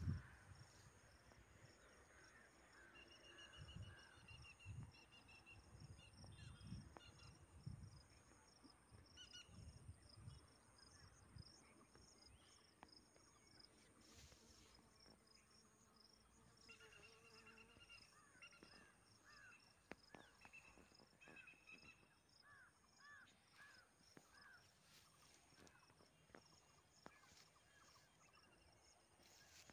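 Faint outdoor ambience of distant birds calling, in short repeated chirps and arched notes, with some low rumbling during the first ten seconds or so.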